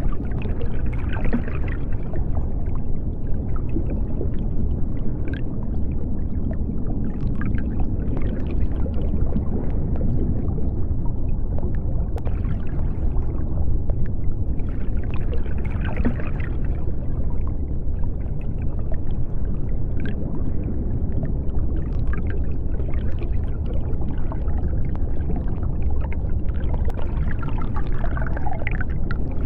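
Underwater sea ambience: a steady deep rumble with bubbling that comes and goes every few seconds and a few faint clicks.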